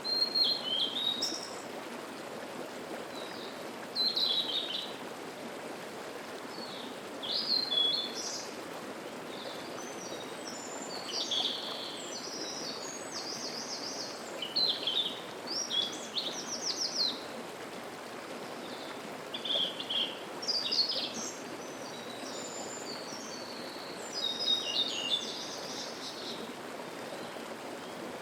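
A mountain stream babbling steadily, with songbirds singing short, high, varied phrases every few seconds over it.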